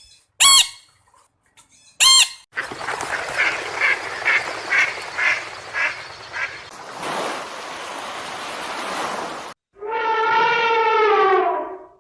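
Two short, sharp calls, then a duck quacking in a steady series, about two quacks a second over a noisy background. Near the end comes a single long, slightly falling call from another animal.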